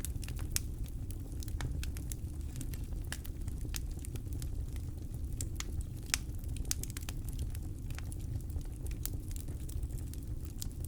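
Campfire burning, wood crackling and popping in quick irregular snaps over a steady low rumble.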